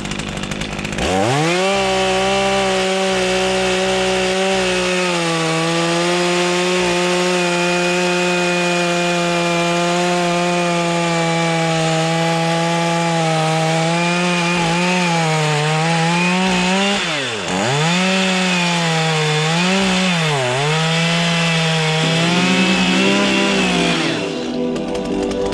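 Two-stroke chainsaw running at high revs while carving wood. Its pitch dips and recovers several times as it bogs in the cut, before it drops off near the end.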